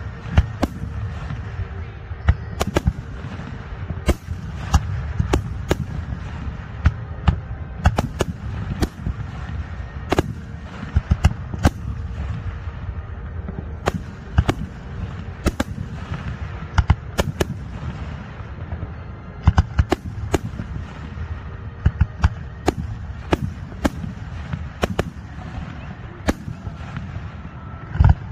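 Fireworks display: aerial shells bursting in an irregular barrage, sharp bangs often coming in quick clusters. Beneath them runs a continuous low rumble of booms.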